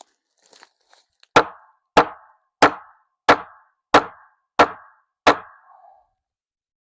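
Seven hard, evenly spaced hammer blows, about one every two-thirds of a second, each with a short ring, knocking apart part of an old corral; a few faint clicks come before the first blow.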